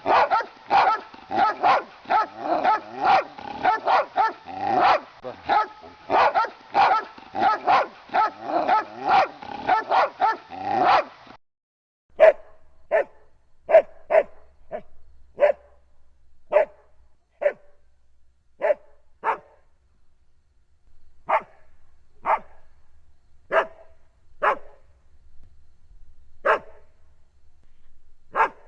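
Dog barking: about eleven seconds of rapid, nearly continuous barking that cuts off suddenly, then after a short gap single sharp barks spaced roughly a second apart.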